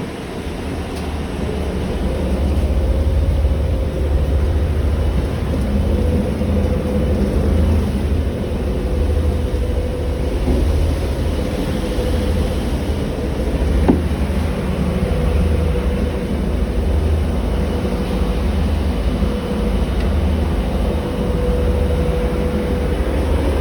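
TEP70 diesel locomotive's engine running with a heavy, steady low rumble and a wavering hum over it, building over the first couple of seconds and then holding steady. There is one short click about two-thirds of the way through.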